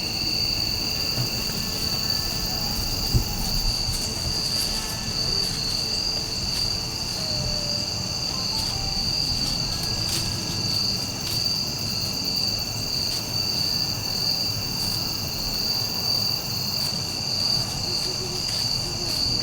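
A chorus of insects, likely crickets, trilling steadily and unbroken at a high pitch, with a single brief knock about three seconds in.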